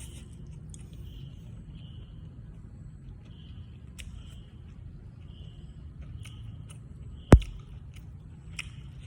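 Close-miked eating: chewing and biting with small wet clicks and short crisp noises. A single sharp thump a little over seven seconds in is the loudest sound.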